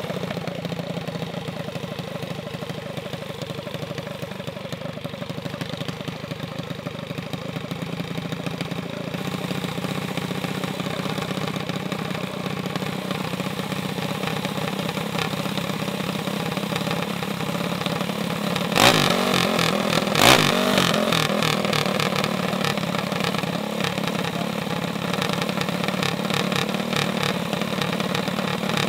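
Small mini bike engines running steadily at idle, with two sharp loud noises about a second and a half apart, roughly two-thirds of the way in.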